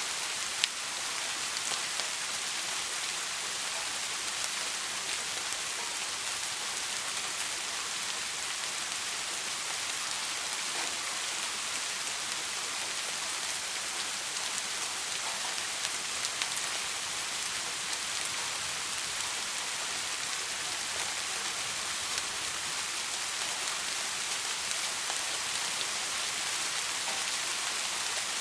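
Steady soft rain falling: an even hiss of drops with scattered single drops ticking out of it, and one sharper drip just under a second in. No thunder.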